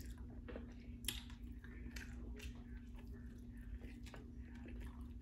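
A person chewing and biting into a sandwich: a run of short, irregular wet mouth clicks and soft crunches. A faint, steady low hum runs underneath.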